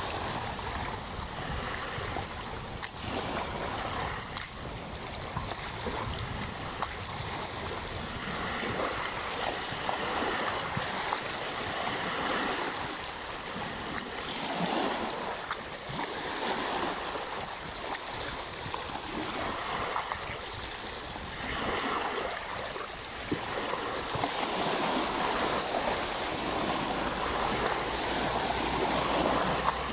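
Small lake waves lapping and washing at the shore, coming in irregular swells every couple of seconds, with a low wind rumble underneath.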